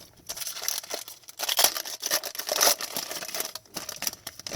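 Foil wrapper of a hockey card pack being torn open and crinkled, an irregular crackling rustle with louder crackles through the middle.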